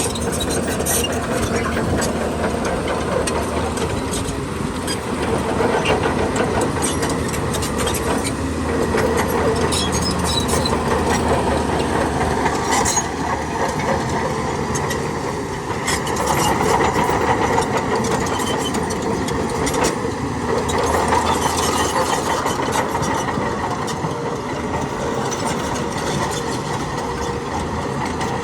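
Heavy diesel earthmoving machinery, a bulldozer or dump truck, running steadily, with scattered clanks over the engine noise.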